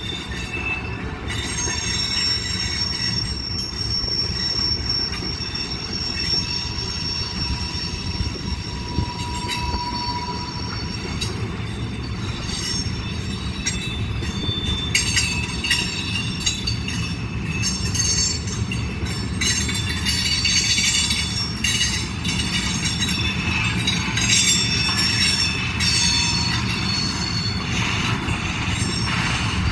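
Freight train rolling past: a steady rumble with high-pitched wheel squeal in the first part, and rapid clicking and clanking of wheels and cars, busier in the second half.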